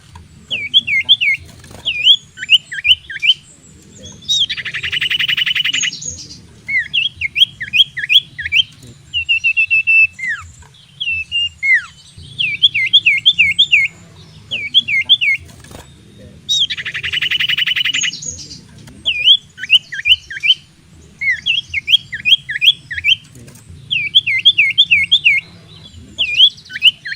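Common iora (cipoh) singing in runs of quick, down-slurred whistled notes. A long buzzy churr comes about five seconds in and again about seventeen seconds in. A low steady hum runs underneath.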